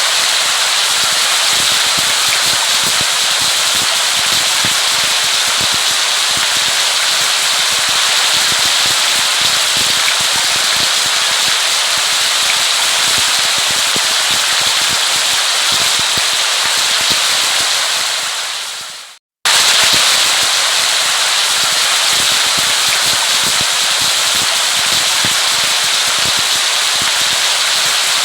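Steady rain, a dense hiss of patter with many small crackling drop hits. A little past halfway it fades out, goes silent for a split second and starts again at full level, as a looped recording restarting.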